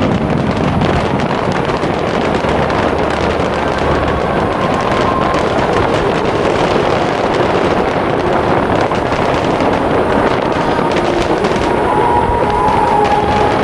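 Fireworks display: a dense, continuous barrage of overlapping bursts and crackling.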